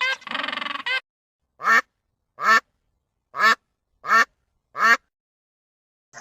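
An animal calling: five short, sharp calls in a row, each under half a second, spaced under a second apart, after the tail of a longer call in the first second.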